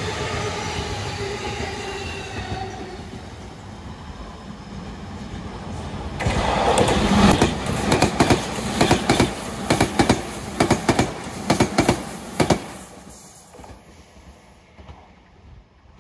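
E231 series electric commuter train passing at reduced speed. A ringing drone of several steady tones fades over the first few seconds: the singing of rails freshly reground by a Speno rail-grinding train. From about six seconds in comes a run of about a dozen loud wheel clacks over rail joints, which then fade as the train moves away.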